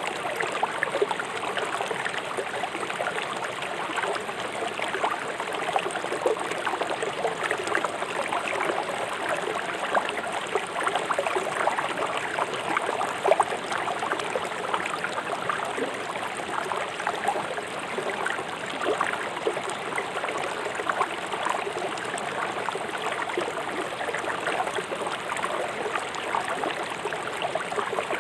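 Fast-flowing river water rushing and splashing over stones, a steady babbling with many small splashes.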